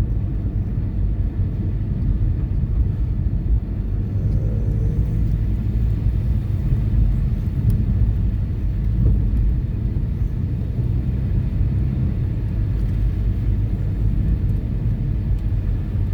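Steady low rumble of a car being driven, heard from inside the cabin: engine and tyre road noise with no distinct events.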